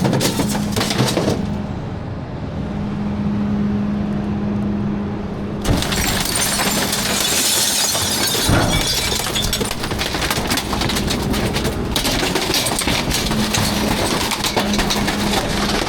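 A garbage truck runs with a steady hum. About six seconds in, loud crunching and clattering begins as refuse is crushed and broken, with many small cracks and snaps.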